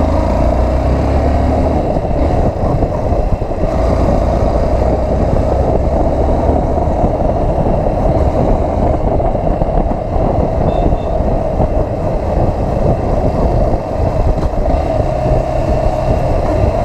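Motorcycle being ridden along a road, engine running steadily under constant wind rush on the microphone.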